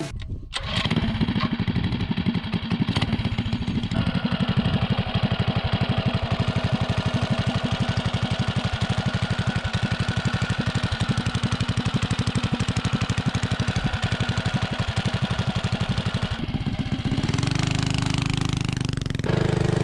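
Predator 212 Ghost single-cylinder engine on a stage 2 mini bike with a header pipe, starting and running steadily with an even, rapid firing beat. Its sound changes near the end.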